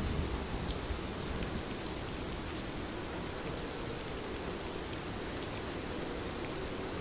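Heavy rain falling steadily, an even rushing hiss with scattered sharp drop ticks.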